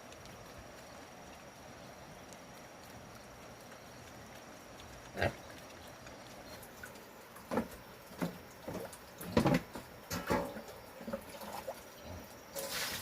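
Pigs grunting: a few short, separate grunts in the second half, over a steady low background.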